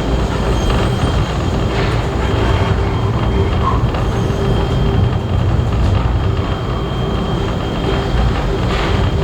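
Heritage passenger train running along the rails at speed: a steady rumble of carriage wheels with a few faint clicks from rail joints and a thin, steady whine above it.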